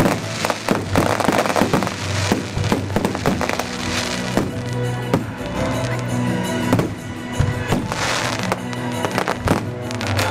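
Fireworks show: a rapid series of bangs, thickest in the first few seconds, over music playing alongside.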